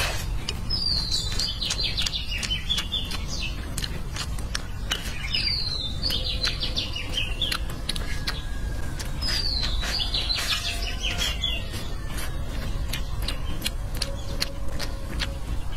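A songbird singing three phrases of about two seconds each, a few seconds apart, each starting high and dropping. Close chewing and small clicks of chopsticks on a bowl go on underneath.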